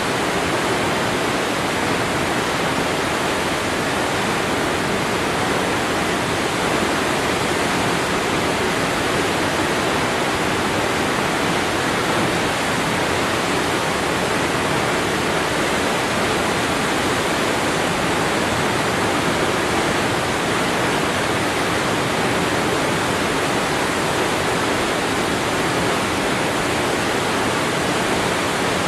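Waterfall: falling water rushing in a steady, unbroken spray.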